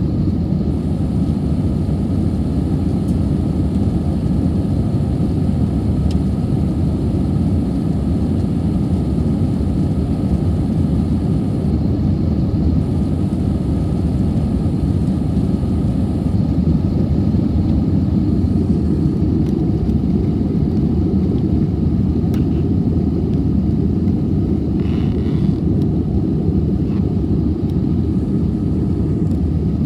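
Airbus A320 heard from inside the cabin: a steady, loud low rumble of its engines and the airflow.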